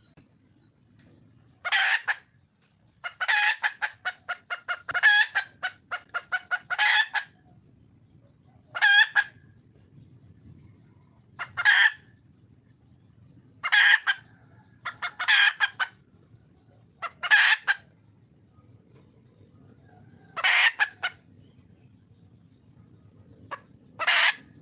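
Red junglefowl hen calling: a fast run of clucks, then single short, loud calls about every two seconds, the wild hen's call for a mate.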